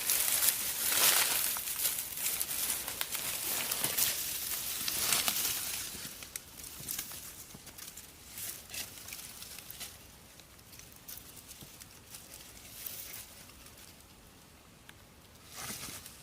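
Rustling and crackling, busy for the first six seconds, then fading to scattered light crackles, with one short rustle near the end.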